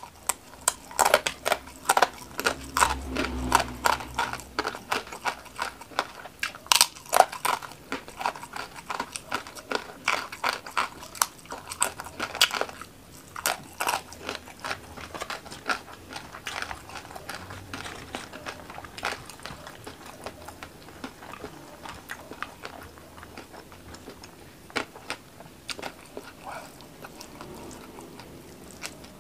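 Close-up crunching and chewing of a crispy fried rempeyek cracker: dense, sharp crunches in the first half that thin out to sparser, softer chewing later on.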